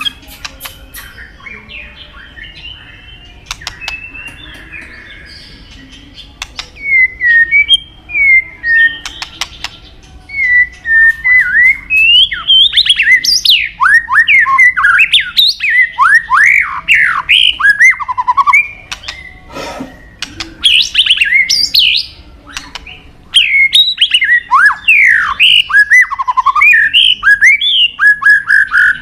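White-rumped shama (murai batu) singing: a few seconds of soft chirps, then loud, rapid runs of varied whistled notes sweeping up and down, with a couple of short pauses.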